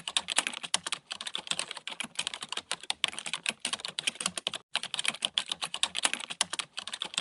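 Rapid computer-keyboard typing: a dense run of quick key clicks, broken by two short pauses, about a second in and near the five-second mark.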